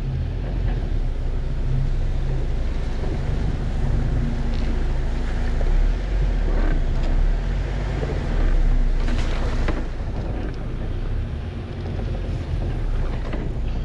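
Jeep Wrangler engine running at low revs while crawling over rocks, a steady low rumble, with wind buffeting the roof-mounted microphone and a few short knocks about six and nine seconds in.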